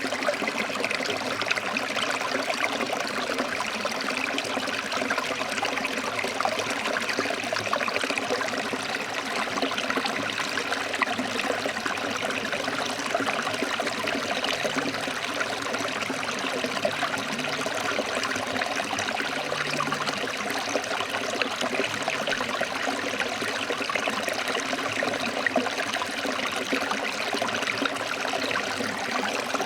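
Stream water flowing over rocks: a steady, even rush with fine splashing.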